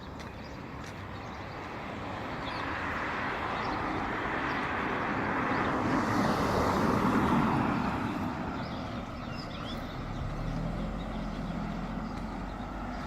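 A road vehicle passing by: its engine and tyre noise swells to a peak about seven seconds in and then fades. A low engine hum follows near the end, with short bird chirps throughout.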